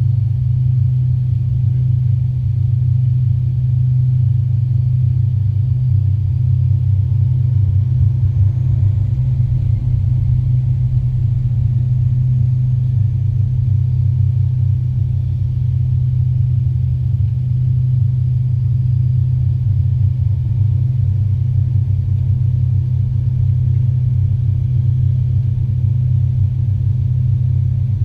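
Steady low drone inside the cabin of an Avro RJ85 airliner, its four turbofan engines running, with a faint high whine that drifts slowly up and down in pitch.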